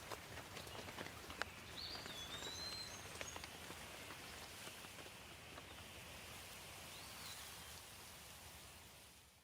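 Light rain falling, with scattered drop ticks over a soft steady hiss, and a few short bird chirps about two seconds in and again near seven seconds. The sound fades out at the very end.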